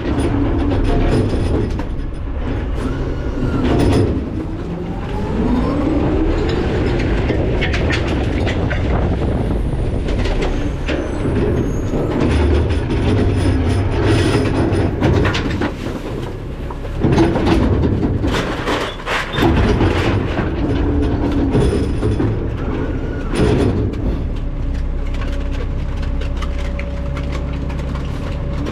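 McNeilus ZR garbage truck working, with a steady low engine and hydraulic drone, repeated metal clanks and bangs, and scraping from the hopper. A squealing, gliding metal sound comes a few seconds in.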